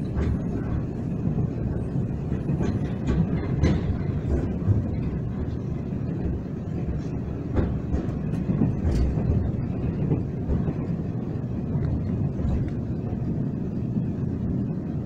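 Moving TRA express train heard from inside the passenger carriage: a steady rumble of wheels on rails, with scattered sharp clicks and knocks, most of them in the first half.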